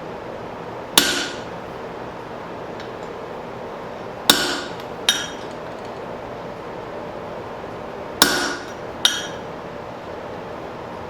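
Hand hammer striking steel at the anvil: five sharp, ringing blows. The first stands alone, then two pairs follow, the blows in each pair under a second apart. The strikes fall as the eye is worked through a hot hammer head, over a steady background rush.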